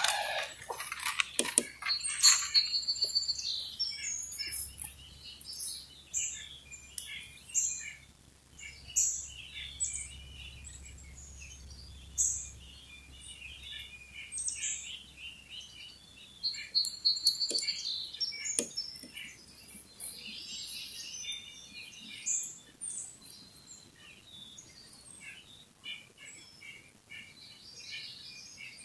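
Wild birds chirping and singing, short high calls all through, with one bird's quick rippling trill about two seconds in and again past the middle.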